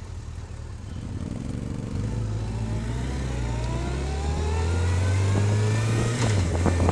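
Motorcycle engine accelerating, its pitch rising steadily and the sound growing louder, with a brief drop in pitch near the end like a gear change.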